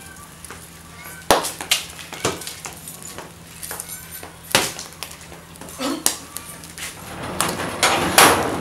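Boiled pig's head pieces grilling on a wire rack over charcoal: about six sharp pops and crackles spread through the stretch, with a hissing haze building near the end. Faint voices in the background.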